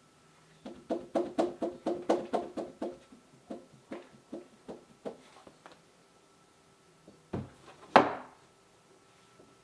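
A quick run of sharp taps or knocks on a hard surface that rings briefly, about four a second, then thinning out. Near the end come two heavier thuds, the second the loudest.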